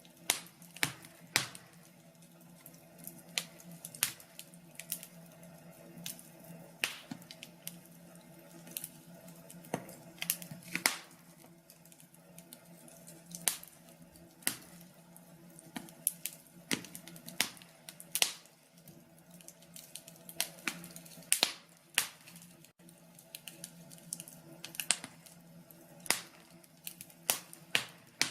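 Wood fire crackling in a fireplace: irregular sharp pops and snaps, sometimes clustered, over a faint steady low hum.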